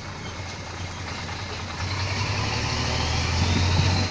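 Dump truck engine running with tyre and road noise while driving. The engine hum and hiss grow louder about halfway through, then drop off suddenly at the end.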